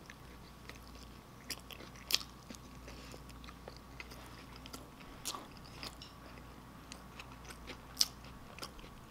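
A mouthful of sloppy joe, soft bun and saucy ground beef, being chewed with the mouth closed: faint wet mouth clicks and smacks at irregular moments, the sharpest about two seconds in and again near the end.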